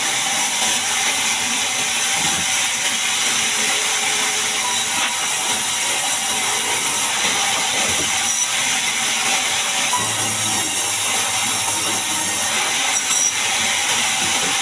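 Sawmill band saw cutting through a large mahogany log: a steady, loud, high-pitched rushing noise.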